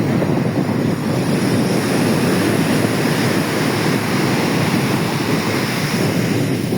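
Rough, stormy sea surf breaking on a beach in a steady, loud rush, with strong wind buffeting the microphone.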